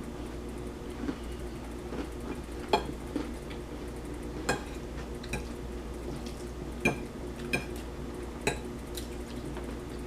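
A fork clinking against a plate while eating spaghetti: about six sharp clinks spread through, over a steady low hum.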